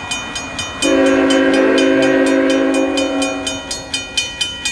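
Freight locomotive air horn: a loud multi-note chord starts about a second in and holds for roughly two and a half seconds before fading. Under it, a rapid, even ringing repeats about three times a second.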